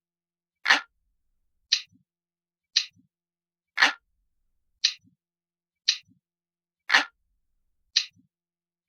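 Analog clock ticking about once a second, every third tick heavier and fuller.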